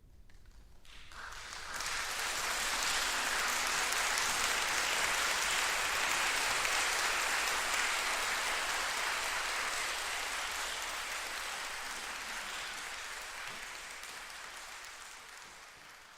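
Concert audience applauding: the applause starts about a second in, swells quickly, holds, then slowly dies away near the end.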